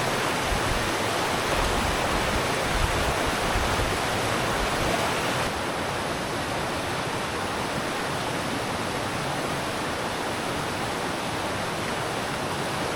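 Steady rushing of river water, a little quieter and duller from about five and a half seconds in.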